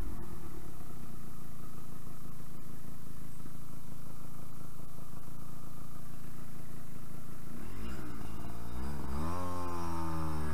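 Yamaha RD125LC YPVS single-cylinder two-stroke engine heard from the rider's seat, running steadily, then revving up sharply about eight seconds in as the bike accelerates. The pitch climbs and holds high, with a brief dip and rise near the end.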